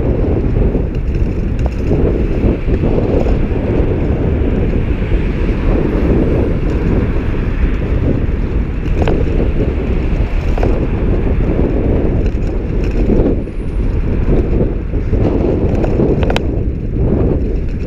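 Steady wind rumble on the microphone of a moving bicycle, with road traffic underneath. Two brief sharp clicks come through, about halfway and near the end.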